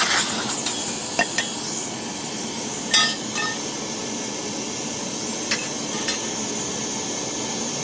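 Metal clinks and knocks from boiler burner parts being handled during cleaning, a handful of separate strikes. The loudest, about three seconds in, rings briefly. A steady hiss continues underneath.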